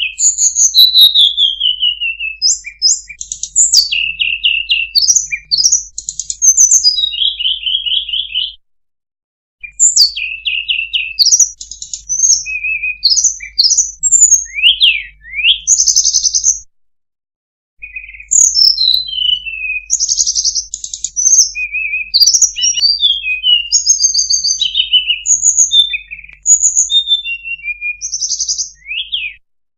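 Sulingan (hill blue flycatcher) song played as a bird-lure recording: rapid high whistled phrases, slurred notes and short trills in close succession. The recording cuts off dead twice for about a second.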